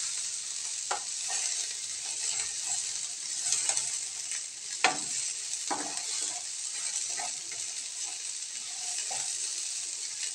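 Diced eggplant sizzling steadily as it fries in oil in a non-stick pan, with a spatula scraping and knocking against the pan as it is stirred now and then, the sharpest knock about halfway through.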